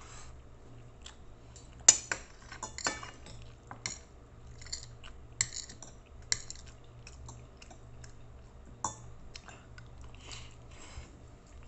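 Close-miked chewing and mouth sounds of a person eating, with a metal spoon and fork clinking against a plate now and then. The loudest clinks come about two and three seconds in.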